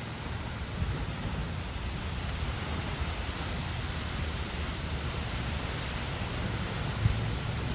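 Steady heavy thunderstorm rain: an even hiss with a continuous low rumble beneath it, and one brief knock about seven seconds in.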